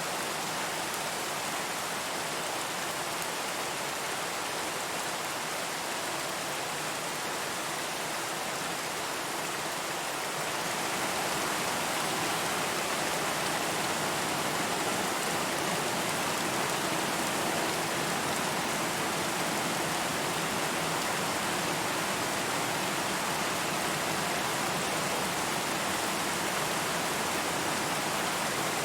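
Steady rain falling, an even hiss with no distinct drops standing out; it grows slightly louder about ten seconds in.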